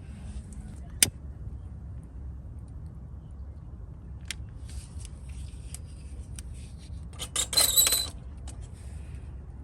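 Objects being handled: a sharp click about a second in, a few light ticks, then about a second of metallic clattering with a faint ring near the end, over a steady low rumble.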